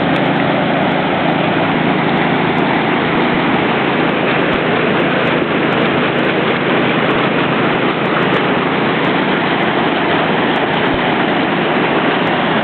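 Floodwater rushing through and over a fish ladder: a loud, steady roar of churning water that does not change.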